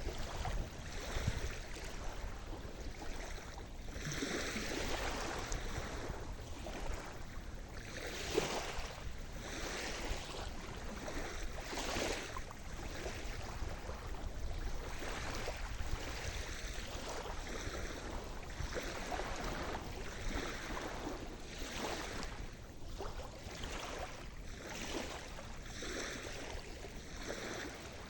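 Sea surf: waves washing in on the shore, a steady rushing hiss that swells and falls back every second or two.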